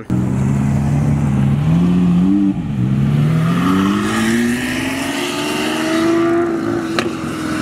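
Lamborghini supercar engine accelerating hard, its pitch climbing, dropping briefly at a gear change about two and a half seconds in, then rising steadily again.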